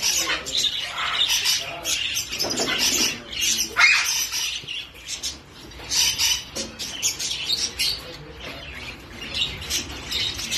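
Many lovebirds and parrots chirping and calling over one another in short, irregular bursts.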